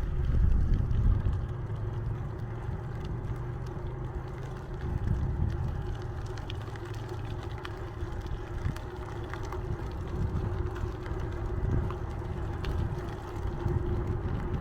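Steady rumble of riding a bicycle: tyre and road noise with wind on the microphone, strongest in the lows, under a faint steady hum and scattered light clicks.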